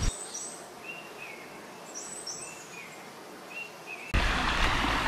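Birds calling over a quiet background: a repeated short call that drops slightly in pitch, about six times, with a few higher, thinner calls among them. About four seconds in, this cuts off suddenly and a loud, steady rushing noise takes over.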